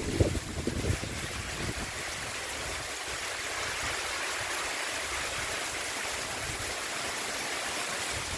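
Heavy rain pouring down in a steady hiss, with gusts of wind buffeting the microphone in the first second.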